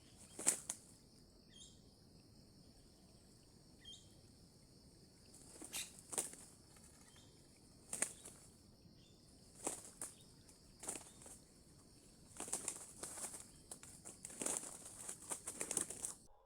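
Junglefowl wings flapping in short, repeated bursts, more frequent and longer towards the end, over a steady high-pitched insect drone.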